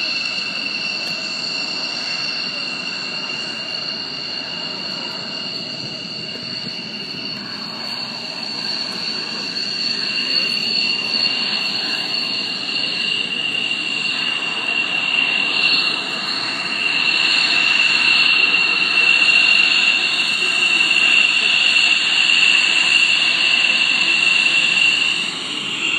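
F-16 fighter jet engine running, a steady high turbine whine over a rushing noise. It grows louder about halfway through.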